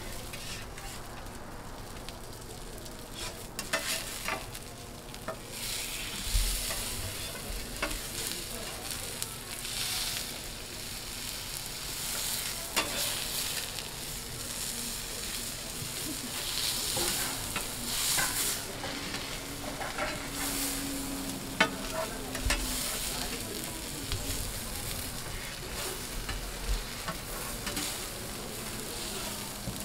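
Egg-coated fish fillets sizzling in oil on a flat steel griddle, a steady frying hiss. Scattered sharp clicks and scrapes from metal spatulas striking the griddle as the fillets are lifted and turned.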